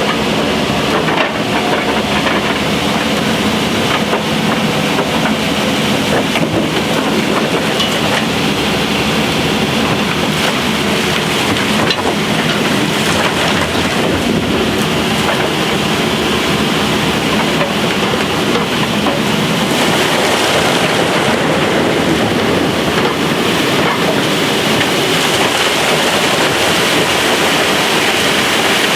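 Opal-mine blower (a truck-driven vacuum that sucks the dug dirt up the shaft) running revved up: a loud, steady rushing roar with an engine hum underneath.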